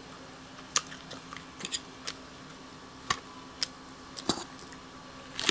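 Close-miked eating sounds: a fork clicking against a salad bowl and crisp crunches of lettuce being chewed. These come as scattered sharp clicks, several to a second at times, over a faint steady hum.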